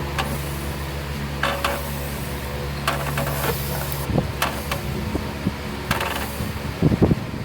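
Metal hand tools clinking and knocking several times while bolts are worked on the engine, over the steady hum of a shop fan; the hum's pitch changes about four seconds in.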